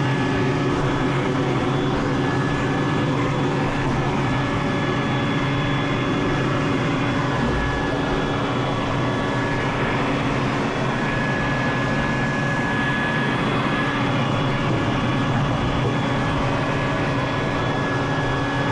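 Vacuum cleaner running steadily while dust and lint are vacuumed out of a dryer cabinet, an even rushing noise with a high whine that strengthens for a couple of seconds past the middle.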